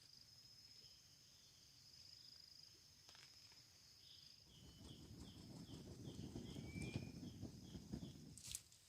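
Faint forest insect sounds: a steady high-pitched trill, joined about halfway through by a run of short chirps repeating roughly three times a second. A low rumble rises under them in the second half.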